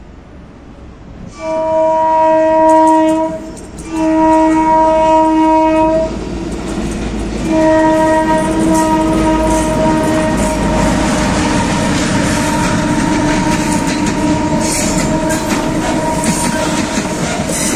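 Diesel locomotive horn sounding three blasts, two of about two seconds and a longer third, as a freight train comes in. Then the rolling rumble and clatter of the hopper wagons passing close by, with wheels clicking over rail joints.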